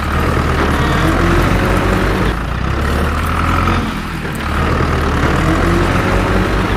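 Heavy vehicle engine running under load, its pitch rising and falling, easing off briefly about four seconds in and then picking up again.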